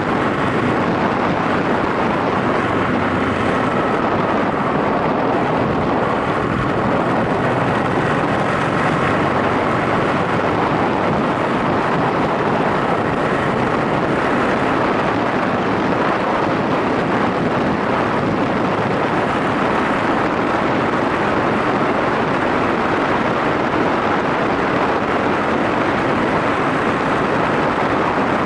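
Yamaha SRX400 single-cylinder motorcycle running steadily while ridden, its engine sound mixed with wind and road noise, with no change in pace.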